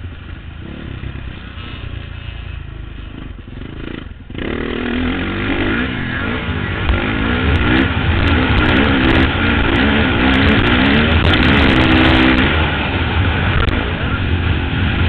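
Motocross bike engine heard from a helmet-mounted camera while racing. It is quieter off the throttle for the first four seconds, then opens up again and revs up and down repeatedly, easing off slightly near the end.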